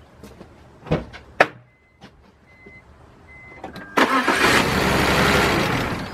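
Two knocks, then about four seconds in the BMW 328i's engine cranks and starts suddenly and runs for about two seconds, fading near the end. One cylinder's ignition coil is plugged into a spark tester instead of its plug, so that cylinder is not firing.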